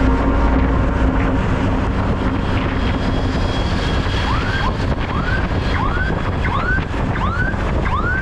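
Steady road and wind noise from a moving motorbike. About halfway through, a series of short rising whoops begins, about one every two-thirds of a second.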